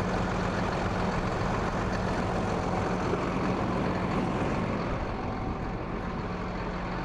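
2016 Hino 338 truck's inline-six diesel engine idling steadily.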